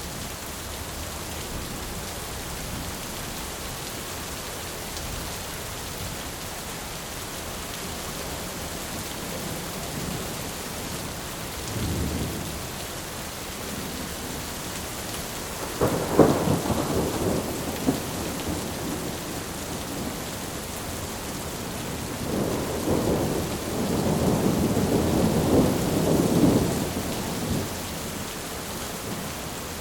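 Thunderstorm ambience: steady rain with thunder. There is a low rumble about twelve seconds in, a sudden loud clap about halfway through that rolls off over a couple of seconds, and a longer rolling rumble of about five seconds near the end.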